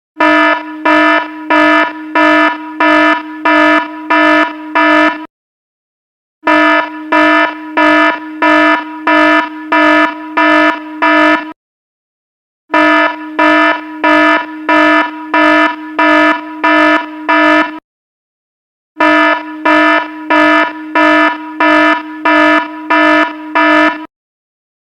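Electronic alarm buzzer beeping rapidly, about three harsh beeps a second, in runs of about five seconds with a one-second pause between runs, repeating over and over.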